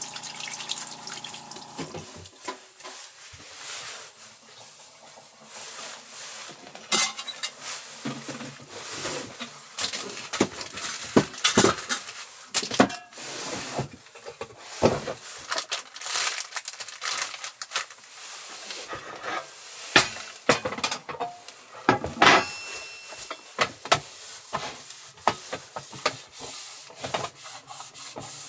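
Cookware and utensils clinking, knocking and scraping, as in stirring and handling pots and dishes, with irregular sharp clinks throughout.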